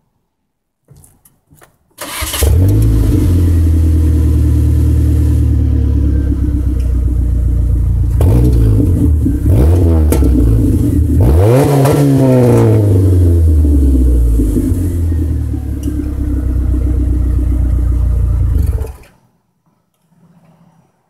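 Saturn S-series 1.9-litre four-cylinder engine with a straight-through exhaust (factory manifold, a 12-inch glasspack in place of the catalytic converter, and a Cherry Bomb chambered muffler) starting up and idling. It is revved twice, the second rev longer, the pitch climbing and falling back to idle, and the engine cuts off suddenly near the end.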